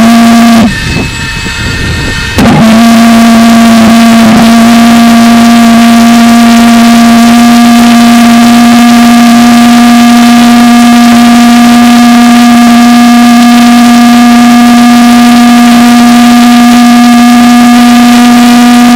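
Propane-fuelled valveless pulse jet engine running with a very loud, steady, pitched drone. It cuts out about a second in, relights about two and a half seconds in, and then runs steadily on.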